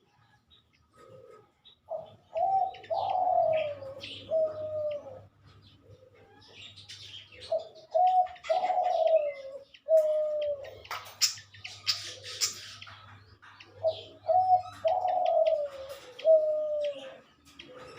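A dove cooing three times, each phrase a run of low notes falling in pitch, with scattered high chirps from small birds in between.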